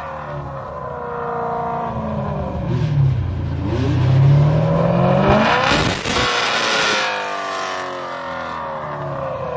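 A BMW coupe's engine is being revved repeatedly through a loud exhaust. The revs rise and fall several times, climb sharply to a peak about six seconds in, then drop away.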